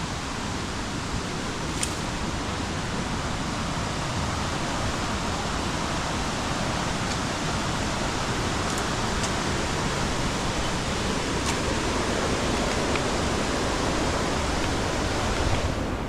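Steady rushing of river water flowing over rocks, an even wash of noise with a few faint clicks.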